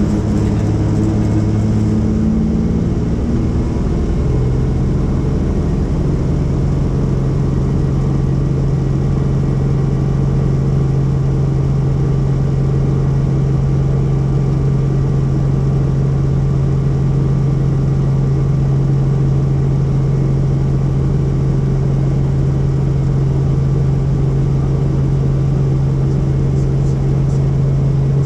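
Tour helicopter running, a loud steady drone with a strong low hum. The pitch shifts during the first few seconds, then holds steady.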